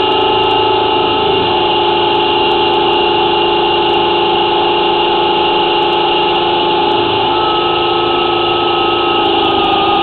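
Drain-cleaning machine running steadily under power, a continuous motor hum with several fixed tones, while cutting roots in a clay sewer line.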